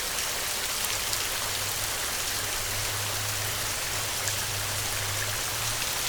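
Heavy rain falling steadily: a dense hiss with scattered sharp drop ticks. A low rumble sits under it from about a second in until near the end.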